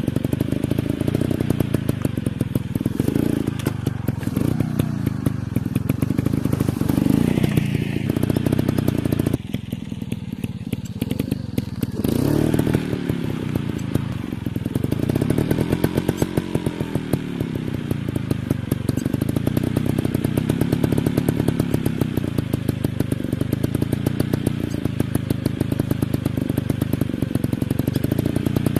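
Dirt bike engine revving up and down repeatedly as it rides, with a rapid steady firing pulse. The pitch rises and falls several times, and there is a quieter stretch about ten seconds in.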